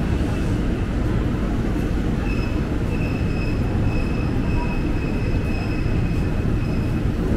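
Commuter electric train running with a steady heavy rumble; from about two seconds in a thin, high, wavering squeal rides over it, like wheels squealing on the rails.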